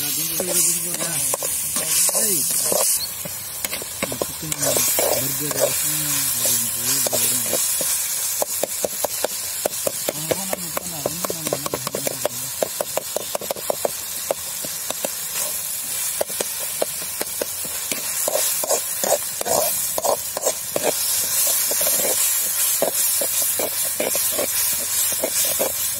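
Onions and tomatoes sizzling in oil in a kadai, with a flat metal spatula scraping and tapping against the pan in quick strokes as they are stirred.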